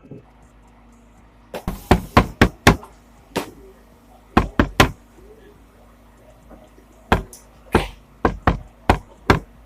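A series of sharp knocks and bangs in irregular clusters, starting about one and a half seconds in. There are about five close together, then one, then three, then a last run of four or five near the end.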